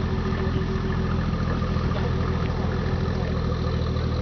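Nissan 430 Cedric idling through an aftermarket muffler, a steady low exhaust note.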